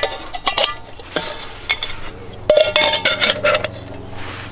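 Stainless steel canister parts of a homemade stick stove clinking and knocking together as they are taken apart and stacked. There are several light metallic knocks, and one ringing clang about two and a half seconds in.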